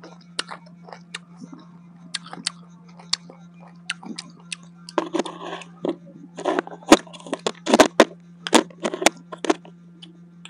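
Close-miked biting and chewing of crisp unripe green mango: a quick run of sharp, irregular crunches, busier and louder in the second half. A steady low hum sits under it throughout.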